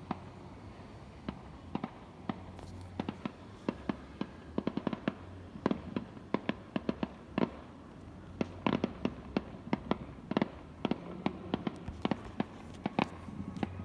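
Fireworks going off, a rapid, irregular run of sharp bangs and crackles, several a second, thickest in the middle and second half.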